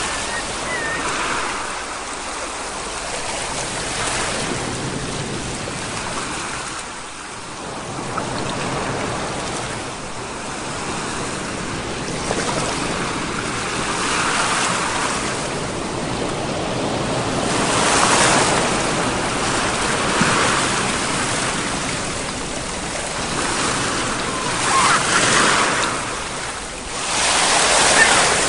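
Ocean surf: a continuous wash of waves, with louder waves swelling and breaking every few seconds, strongest near the end.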